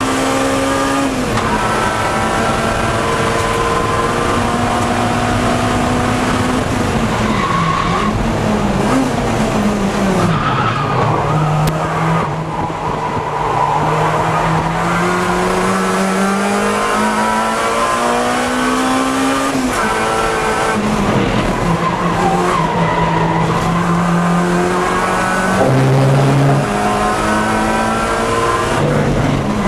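Acura Integra Type R race car's engine at hard throttle on track, its pitch climbing through the gears and dropping at shifts and braking, with the tyres squealing through corners.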